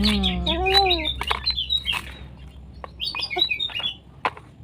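Birds chirping in quick short notes, with scattered sharp clicks and a brief gliding tone in the first second.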